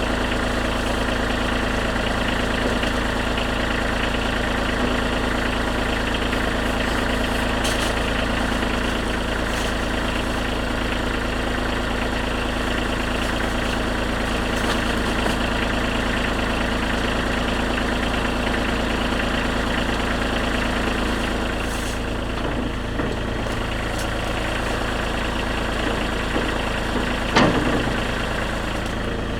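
Kubota B2320 compact tractor's three-cylinder diesel engine running steadily, with a brief louder sound near the end.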